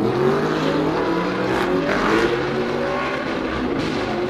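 Audi R8 with a Capristo aftermarket exhaust running and revving, its engine pitch rising and falling.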